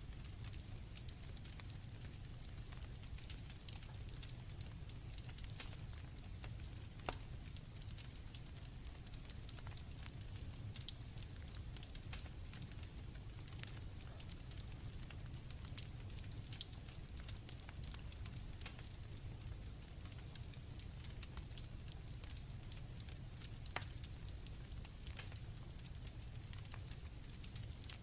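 Campfire crackling with scattered sharp pops, the loudest about 7 and 24 seconds in, over a low rumble of the fire, with crickets chirping steadily in a high, even drone.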